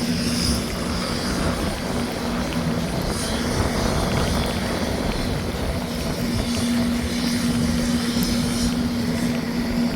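Aircraft engine running steadily on an airport ramp, a constant rushing noise with a low hum that fades out and returns a few times.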